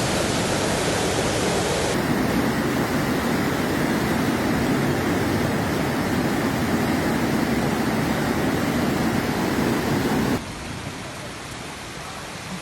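Steady hiss of heavy rain, which becomes quieter for the last two seconds.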